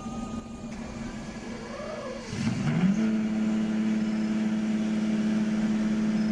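An engine speeds up about two and a half seconds in, then holds a steady, even pitch.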